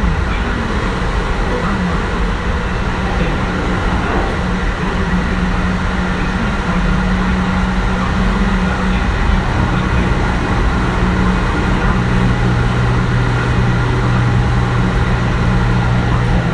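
Kintetsu 1420 series train running, heard from inside the car: wheel and rail rumble with the steady tones of its Mitsubishi GTO-VVVF inverter and traction motors. The tones waver at first, and a steady low hum sets in about ten seconds in.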